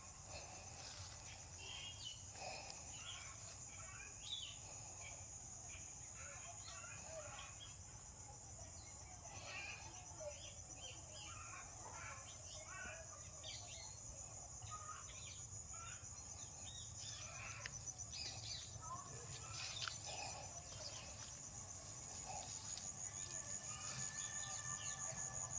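Outdoor garden ambience: a steady high-pitched insect trill, with many short bird chirps and calls scattered over it.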